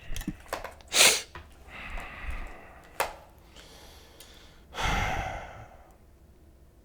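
A person breathing out heavily in a couple of sighs, the longest near the end fading away, with a few small clicks.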